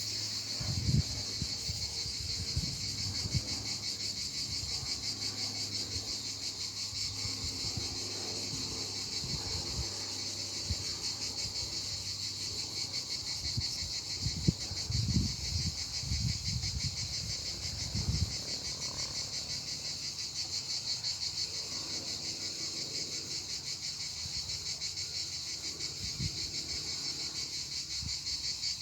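A steady, fast-pulsing insect chorus, with a few low thuds about a second in and again around the middle.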